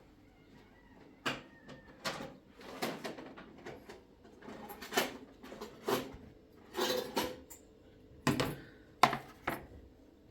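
A series of irregular knocks and clatters, like household items being handled and set down, about a dozen in all, the sharpest near the end.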